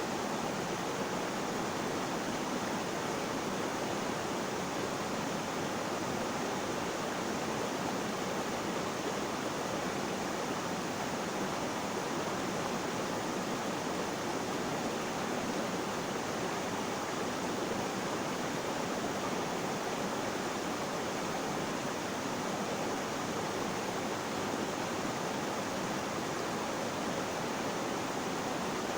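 Flowing water, a steady unbroken rush with no change in level.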